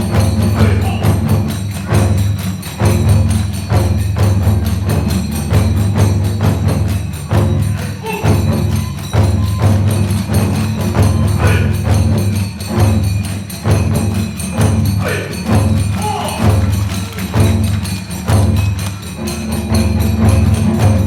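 Kagura ensemble music: large and small taiko drums beating a fast, driving rhythm under the constant clash of tebyōshi hand cymbals, with a bamboo fue flute.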